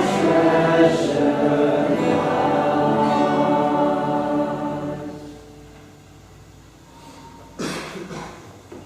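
Choir singing held notes, the last chord dying away about five seconds in. A short burst of noise comes near the end.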